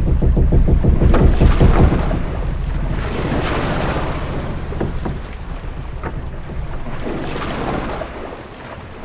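Sailing ship at sea: waves washing against the hull over a deep, steady rumble of water and wind, with a few short knocks from the ship. Loudest in the first couple of seconds, then easing down near the end.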